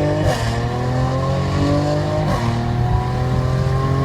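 Car engine accelerating hard through the gears. Its pitch climbs steadily, then drops sharply at an upshift about a third of a second in and again a little past two seconds, before climbing again.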